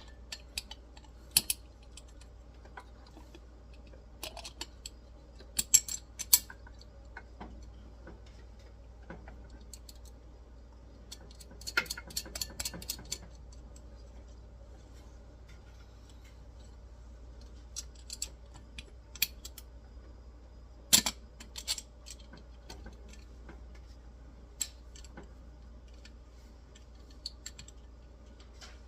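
Scattered sharp clicks and taps of small metal parts and tools being handled as a bolt and nuts are fitted on an espresso machine, with a quick run of rattling clicks near the middle and a loud single click later on.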